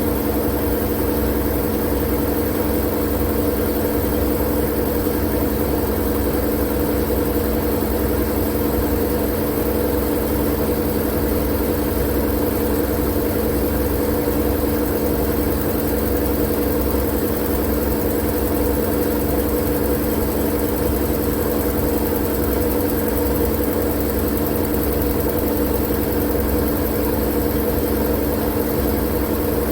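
Steady white-noise hum for sleep: an even hiss over a low drone with a few steady hum tones, unchanging throughout.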